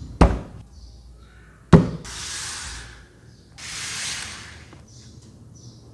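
Packaging being handled: two sharp knocks, as of a box being set down, then two stretches of rubbing or sliding, about a second each.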